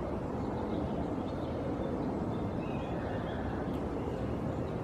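Faint, short bird calls over a steady outdoor background hiss.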